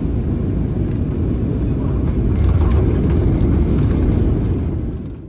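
Cabin noise inside a Boeing 737-700 on short final: a steady, loud roar of the CFM56 engines and rushing air, heaviest in the low rumble. It fades out just before the end.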